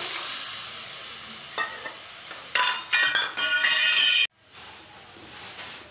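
Cut flat beans and potatoes tipped into a metal kadai of hot, spiced dried-fish curry, sizzling at once with a steady hiss. Loud scraping and clattering against the pan follows for under two seconds, cutting off suddenly.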